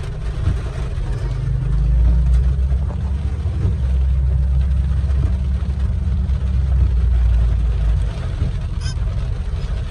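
Car cabin noise while driving in heavy rain: a heavy low road-and-engine rumble, stronger for several seconds in the middle, under a steady hiss of rain and spray.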